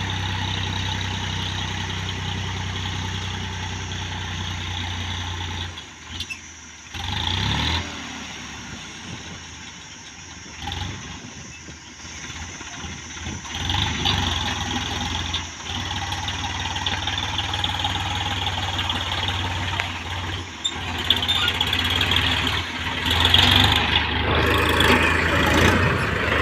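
Massey Ferguson tractor's diesel engine running steadily. The engine sound drops away about six seconds in, stays lower for several seconds, then builds back up and is loudest near the end.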